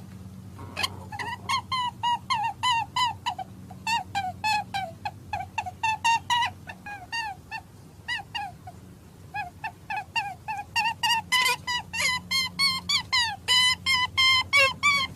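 An animal's long run of short, high, squeaky calls, each bending in pitch, about three a second, thinning out briefly past the middle and coming faster near the end, over a steady low hum.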